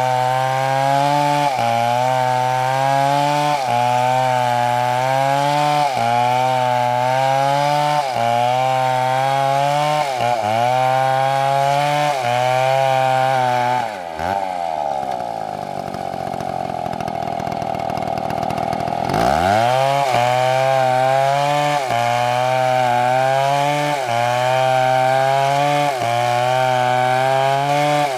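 MS720 chainsaw cutting through a big tree trunk, its engine pitch sagging and recovering about every two seconds as the chain bites under load. About halfway through, the revs fall away and the saw runs slower for around five seconds, then it is revved sharply back up and the rhythmic cutting resumes.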